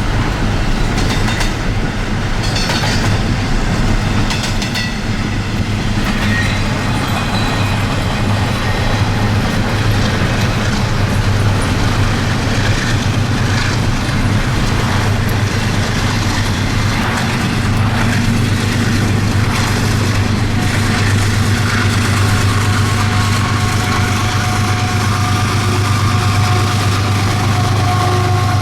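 Long intermodal freight train rolling at speed, heard from a car driving alongside it: a steady low rumble with wheels clicking over rail joints in the first few seconds.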